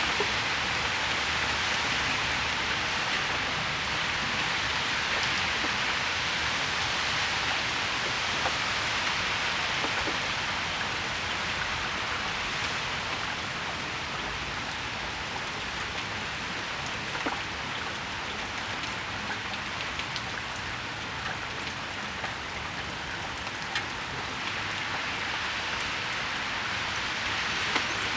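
Steady rain falling and pattering on surfaces, with occasional louder single drips standing out from the hiss; it eases slightly midway and picks up again near the end.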